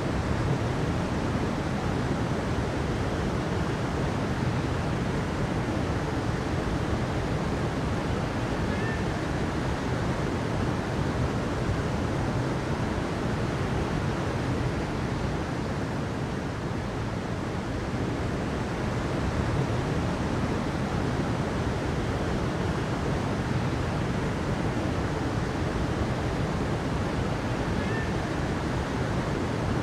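Steady rushing water, an even unbroken wash of noise that swells gently now and then, with a faint short chirp about nine seconds in and again near the end.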